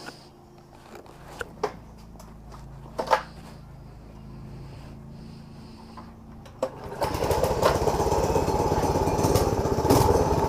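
Motovox minibike's single-cylinder Predator engine, first faint and low under a few clicks and knocks. About seven seconds in it gets much louder, running with a fast, even firing rhythm.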